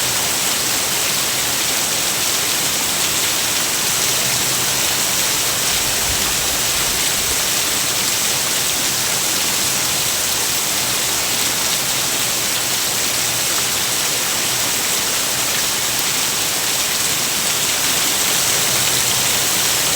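Steady rain falling, an even hiss that stays at the same level throughout, with no separate drops or thunder standing out.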